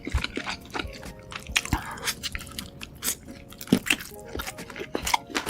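A person chewing and biting food close to the microphone, with many irregular crisp crunches.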